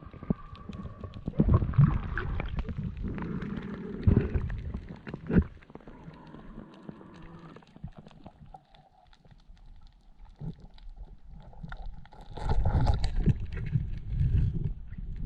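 Muffled underwater sound from a submerged camera during a free-dive: low gurgling rumble with a few sharp knocks in the first half, growing louder near the end.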